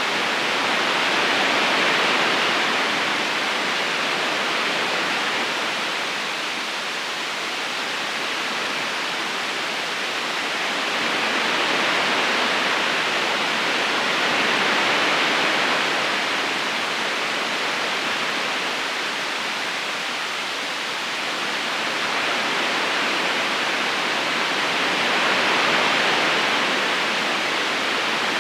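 River current flowing over stones: a steady rush of running water that slowly swells and eases every several seconds.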